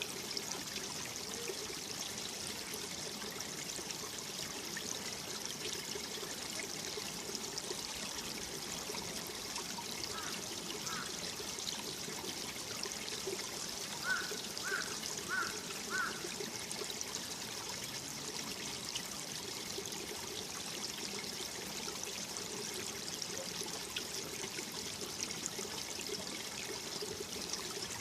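Mountain valley stream running steadily over rocks, a continuous trickling and pouring rush. Around the middle a few short high calls sound over it, four in quick succession.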